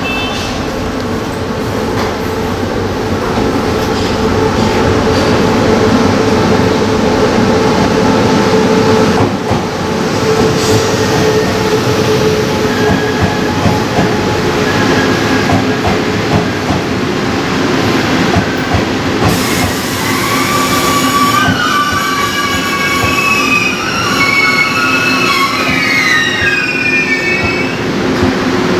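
TRA E1000 push-pull Tze-Chiang express train rolling slowly into the station alongside the platform, a steady rumble of wheels on rail. In the last third a high, wavering squeal from the wheels and brakes comes in as it slows to stop.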